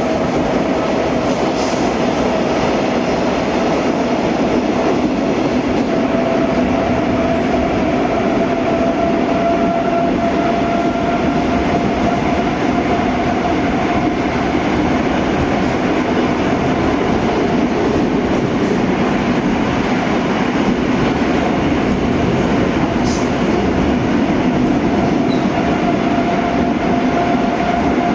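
81-740/741 'Rusich' metro train running between stations, heard from inside the car: a steady rolling rumble with a steady whine over it.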